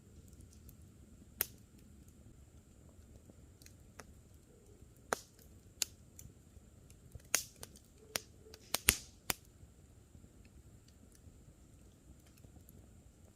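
Wood campfire crackling: scattered sharp pops over a quiet background, bunching into a quick run between about seven and nine and a half seconds in, the loudest near nine seconds. A faint steady high tone sits underneath.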